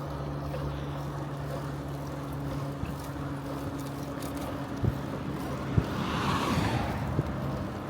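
Riding a bicycle on a road: steady tyre and wind noise with a low, even hum that fades out about five seconds in. A few sharp knocks from bumps follow, and a rushing swell about six seconds in, as of a car passing.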